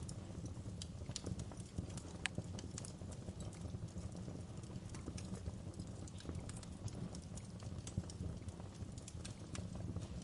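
Wood fire in a fireplace crackling: irregular snaps and pops over a steady low rumble of the burning fire, with one sharper pop about two seconds in.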